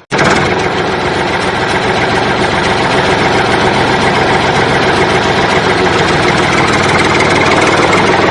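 A motor running steadily and loudly. It drops out for an instant right at the start, then cuts back in at full level.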